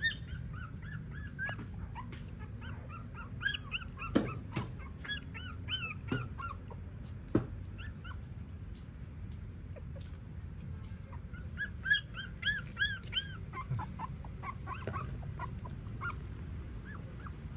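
Newborn puppies squealing and whimpering in short, high-pitched cries that come in bursts with pauses between, mixed with a few sharp knocks.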